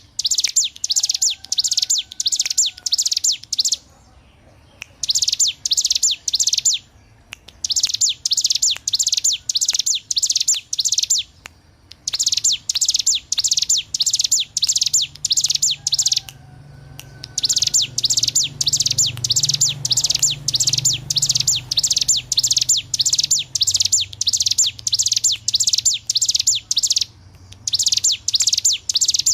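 Bar-winged prinia (ciblek gunung) singing its rapid-fire 'ngebren' song: fast runs of sharp, high repeated notes in phrases a few seconds long, broken by short pauses.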